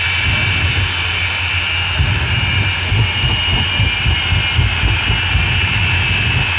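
Twin jet engines of a jet-powered fire truck running steadily: a loud roar with a high turbine whine over an uneven low rumble.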